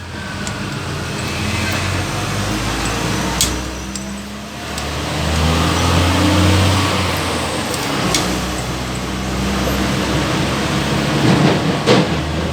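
Road traffic passing close by, with engine hum and tyre noise swelling and fading as vehicles go past. A few sharp clicks sound over it.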